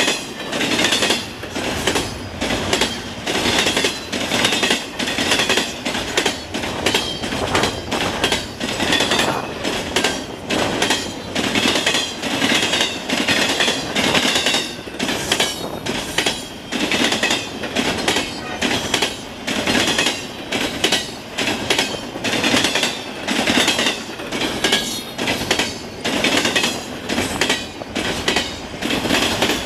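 Railcar wheels clanking over the gaps of a railway diamond crossing as a long train rolls through: a continuous, irregular string of loud metallic clanks in groups, with a high wheel squeal coming and going.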